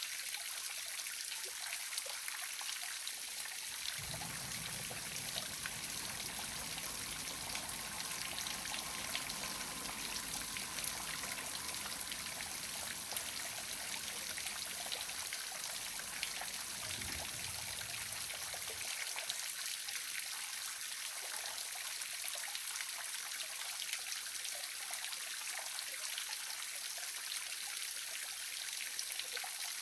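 Waterfall: an even, steady rush and splash of falling water.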